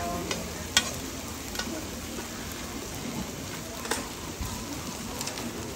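Fried carrot cake sizzling on a flat griddle pan: a steady frying hiss, with a few sharp clicks, the loudest about a second in.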